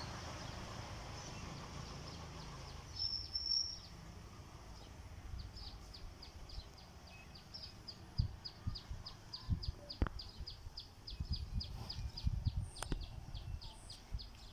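A small bird chirping in a quick, even series of short high notes, about four a second, starting about five seconds in. Under it runs a low, uneven rumbling noise, and there are two sharp clicks near the end.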